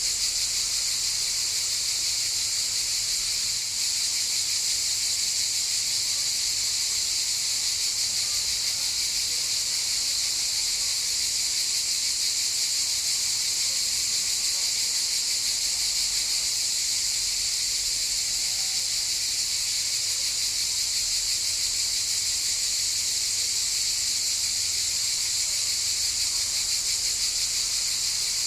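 Cicadas buzzing, a steady high-pitched sound without a break.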